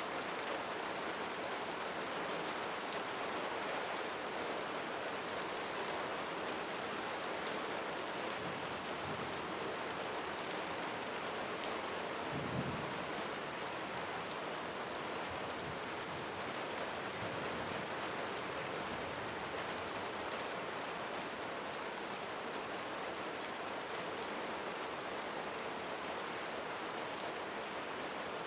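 Steady rain falling, a dense even patter. A brief low thump is heard about halfway through.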